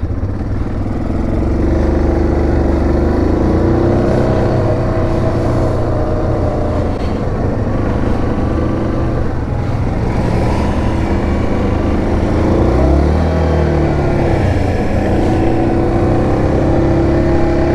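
Yamaha Grizzly 700 ATV's single-cylinder engine working under load through a steep water crossing, its pitch rising and falling as the throttle changes, with a dip and climb about two-thirds of the way in.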